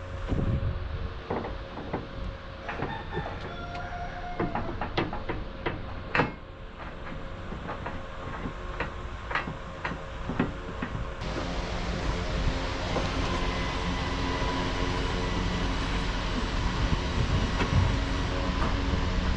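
Metal knocking and clanking on a truck chassis, many separate strikes over a low rumble. About eleven seconds in the sound changes to a louder, steady rumble of heavy machinery.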